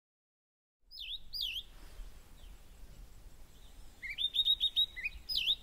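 Wild birds calling after a silent first second: a few sweeping down-and-up whistled notes, then a quick run of about five rising chirps near the middle, and more sweeping notes near the end, over a faint low rumble.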